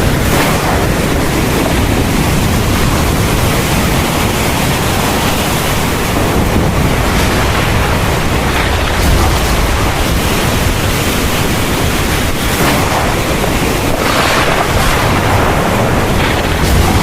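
Steady heavy rain in a thunderstorm, a dense even hiss, with low rumbles of thunder swelling briefly about nine seconds in and again near the end.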